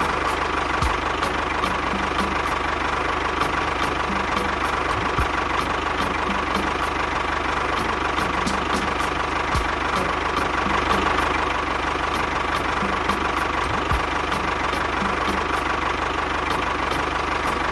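A small motor-driven machine running steadily, with regular light ticks about three a second.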